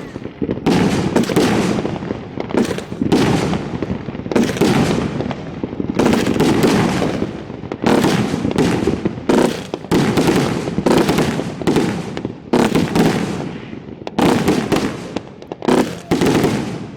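Fireworks finale heard from the launch site: a dense, overlapping string of loud booms from shells being fired and bursting, about one to two a second, each trailing off in a rumbling echo.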